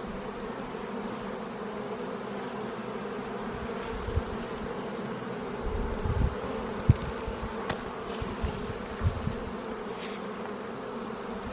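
A colony of honeybees buzzing steadily in an opened hive, with a few short knocks and soft thumps in the middle.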